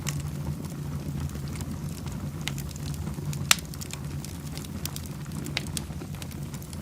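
Wood fire burning in a fireplace: scattered crackles and pops over a steady low rumble, with one sharp, louder pop about halfway through.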